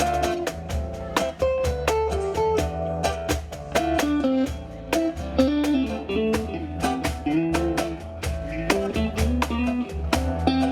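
Live band playing an instrumental break: a lead guitar melody of short notes over strummed guitar, bass and steady percussion.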